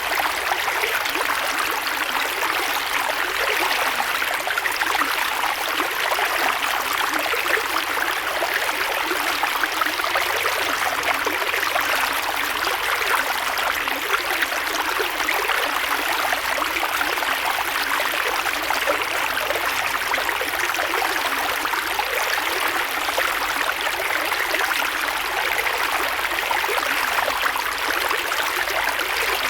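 Creek water flowing and rippling over rocks, a steady, unbroken rush.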